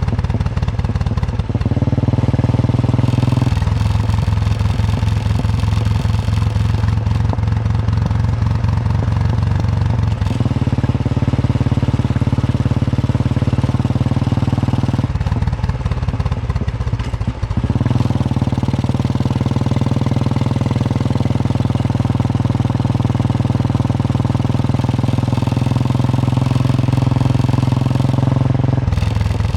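Royal Enfield Bullet 350's single-cylinder engine thumping steadily as the motorcycle is ridden. Its note shifts abruptly about five times.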